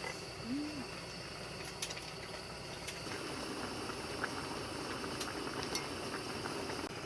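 A pot bubbling on a low simmer, with a few light clicks of dishes and cutlery.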